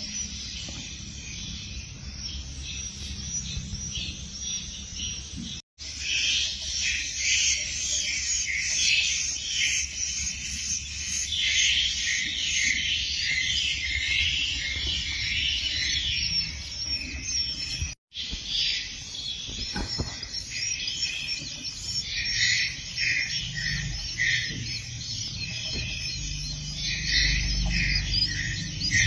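Swiftlets chirping: a dense, continuous chatter of short, high calls, broken by two brief dropouts about six and eighteen seconds in.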